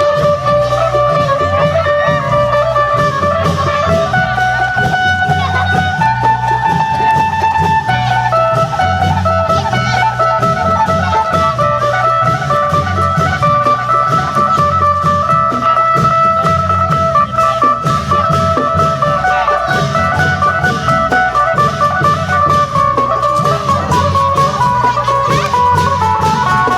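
Isan folk music from a procession band: a phin (plucked northeastern Thai lute) plays a melody with long held notes over a steady, repeating beat of klong yao long drums and sharp percussion strokes.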